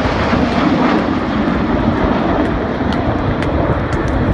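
Jet noise from the Red Arrows' BAE Hawk T1 jets flying their display in formation: a loud, steady roar of turbofan engines overhead.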